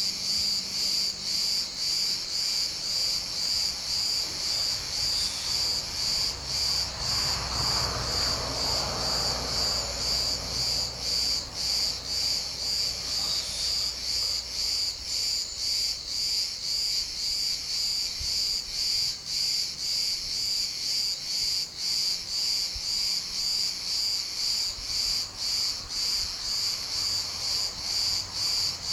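Chorus of insects, crickets or cicadas, shrilling in a steady, high-pitched, pulsing drone. A faint low rumble rises and fades partway through.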